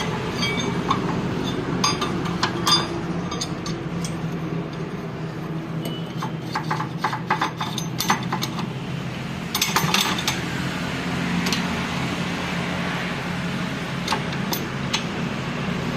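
Metal tools and parts clinking and tapping during tractor gearbox work, over a steady low hum. There is a quick run of clinks about six to eight seconds in and another about ten seconds in.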